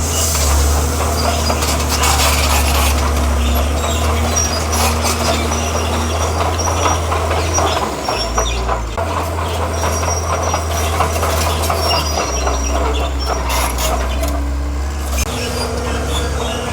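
Komatsu bulldozer's diesel engine running under load, its low drone shifting pitch several times, with steady clanking from the steel tracks and short high squeals.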